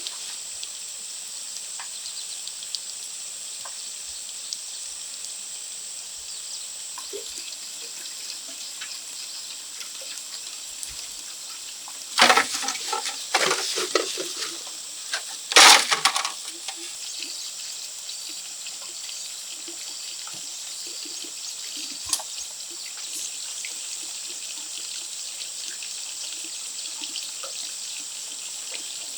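Water running and trickling over a steady high-pitched drone, with a few loud bursts of noise between about twelve and sixteen seconds in.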